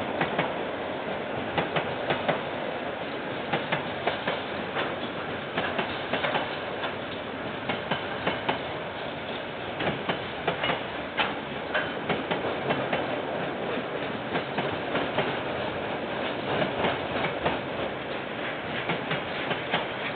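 A KiwiRail container freight train rolling past, heard through a security camera's microphone: steady rolling noise from the wagons, with frequent irregular wheel clicks over the rail joints.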